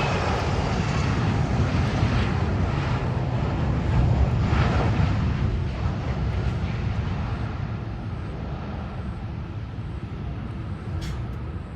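Jet airliner landing: a steady engine rumble, loudest about four seconds in, then slowly fading.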